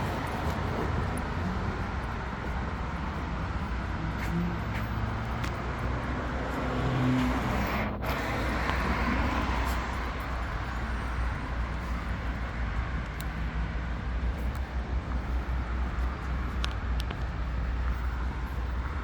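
City street traffic at night: a steady wash of passing cars with a low engine rumble, swelling briefly about seven to eight seconds in.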